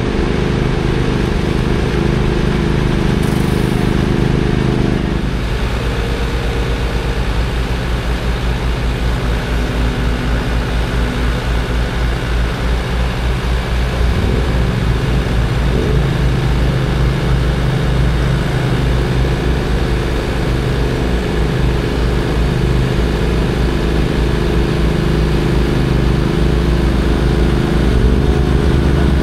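Heavy diesel engine running steadily, its note changing about five seconds in and again around fourteen seconds as the engine speed shifts.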